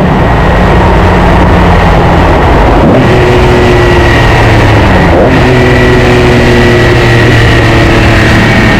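Nissan S30Z's modified L28 straight-six running loudly while driving, with the engine note breaking briefly about three and five seconds in, as at gear changes.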